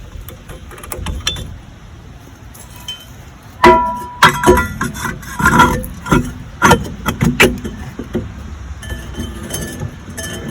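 Metal tools or car parts clinking and clanking, a cluster of sharp metallic knocks with brief ringing starting about a third of the way in and going on for about four seconds, with a few fainter clinks near the end.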